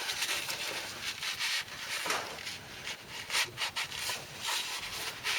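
Hand scrubbing on the engine block of a Chevy 307 V8: a run of uneven rasping strokes as the stamped number pad is rubbed clean so its serial number can be read.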